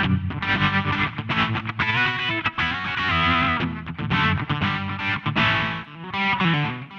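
Electric guitar playing a phrase of notes and chords through SSL's MODULE8 multi-effects plugin, coloured by its modulation effects.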